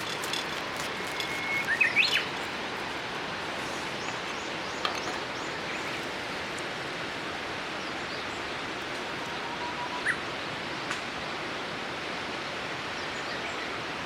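Steady rushing of a river, with small birds chirping: a quick run of chirps about two seconds in and a single short call about ten seconds in.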